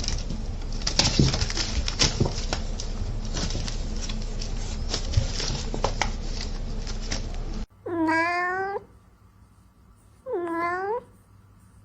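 A house cat meowing twice, two drawn-out meows about two seconds apart. They come after a stretch of rustling noise with scattered clicks that cuts off suddenly.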